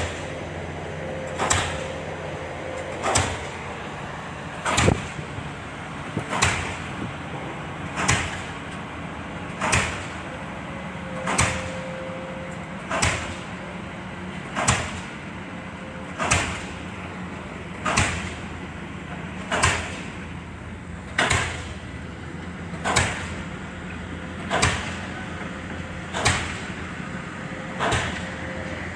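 Excavator's diesel engine running steadily under sharp, evenly spaced knocks about every one and a half seconds.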